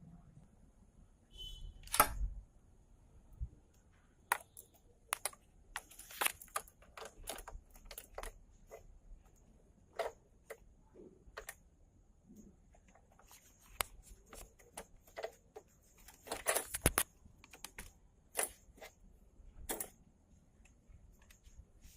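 Irregular sharp clicks and light taps of small parts and hand tools being handled while a motorbike's front brake cable is replaced. The clicks come singly or in quick runs, the loudest about two seconds in and a dense cluster near the end.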